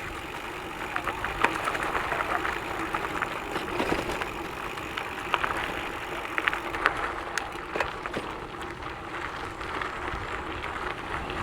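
Trek Checkpoint gravel bike rolling over a sandy gravel track: steady tyre rumble with many scattered crunches and rattles.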